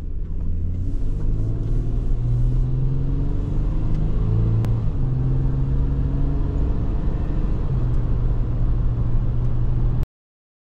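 2007 Toyota 4Runner's engine accelerating, heard from inside the cabin. Its pitch climbs and drops back at upshifts about five and eight seconds in. The sound cuts off suddenly near the end.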